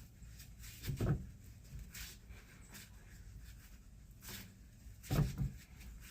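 Two dull knocks about four seconds apart, with faint light clicks and handling noises between them.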